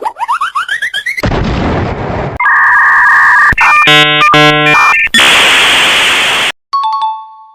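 A rapid string of cartoon sound effects: a few quick rising whistles, a rumbling blast, loud electronic buzzing and beeping tones, a hissing rush, then a short chime near the end.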